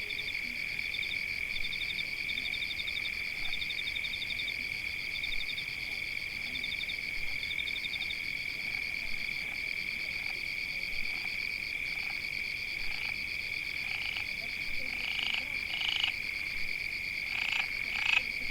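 A dense chorus of calling animals, likely frogs: high, steady trilling with runs of fast pulsed trills, and a few short, louder calls toward the end.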